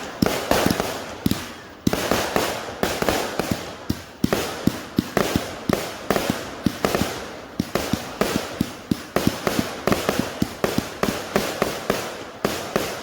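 Consumer fireworks cakes firing a finale barrage: rapid, overlapping launch thumps and aerial bangs several times a second, with crackling between them. The barrage thins out near the end.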